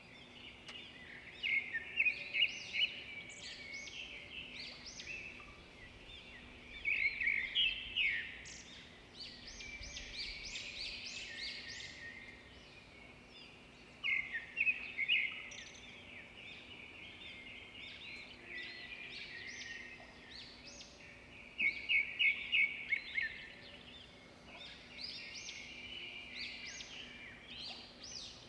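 Birds chirping and calling in quick, overlapping chirps and trills, swelling into louder clusters every few seconds.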